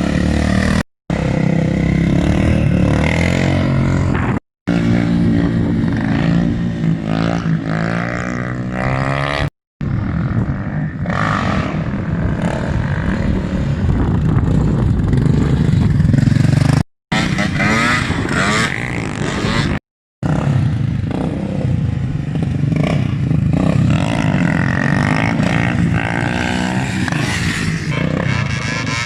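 Motorcycle and quad engines running and revving, their pitch rising and falling, in a string of short clips with abrupt cuts between them.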